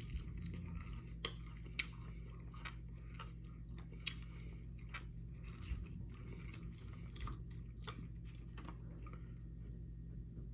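A person chewing McDonald's fast food close to the microphone, with irregular wet mouth clicks and small crunches.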